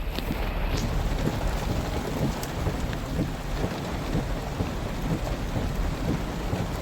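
Steady rain pattering, with a low rumble underneath.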